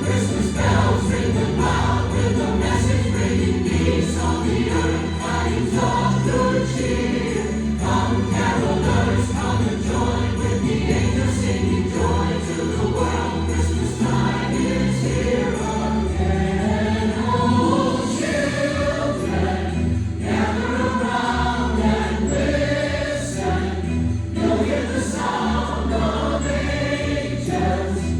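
A choir singing a Christmas song over accompaniment with a steady beat, with jingle bells shaking.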